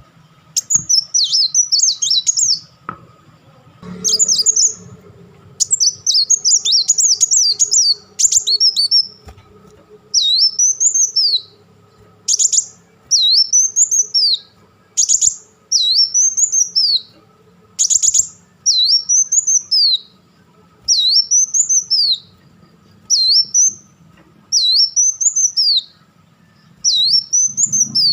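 Kolibri Wulung sunbird singing high and loud. For the first eight seconds or so it chatters in a fast jumble of notes, then it settles into one short rising-and-falling phrase repeated about once a second.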